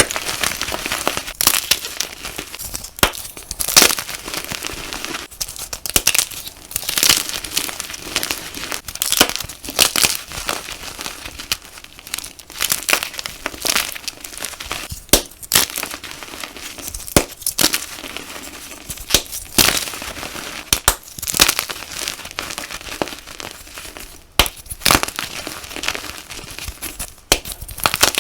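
Gym chalk being crushed and crumbled: a continuous crunchy crackling broken by sharp, louder crunches every second or two.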